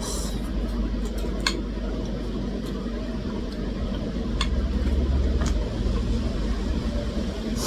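Steady low rumble that swells for a second or so past the middle, with a few faint sharp clicks over it.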